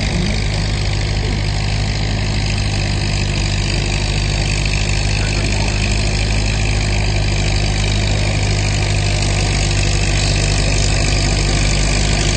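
Minneapolis-Moline GB tractor engine running steadily under heavy load as it pulls the sled down the track, growing slightly louder as the pull goes on.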